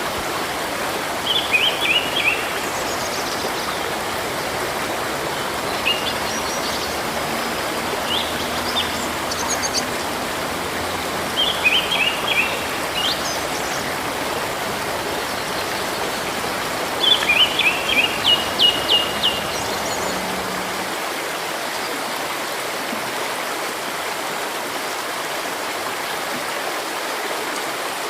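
A river or stream running steadily, with birds singing over it in short bursts of quick, high chirps, about four bursts, the longest and loudest around two-thirds of the way through.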